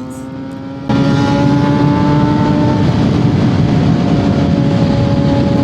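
Vehicle engine running at a steady high pitch under a rushing noise. The sound jumps abruptly much louder about a second in, and the pitch shifts slightly about three seconds in.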